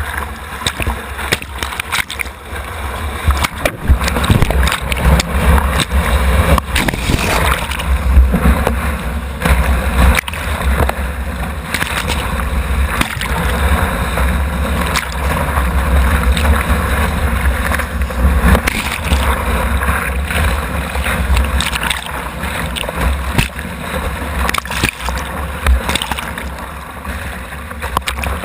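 Whitewater rushing and splashing around a kayak, with many short splashes and a heavy low rumble, heard through a GoPro mounted on the kayak.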